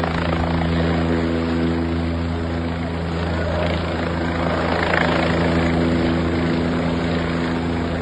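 Helicopter flying close by, its rotor and engine making a steady drone of several held tones under a rushing noise.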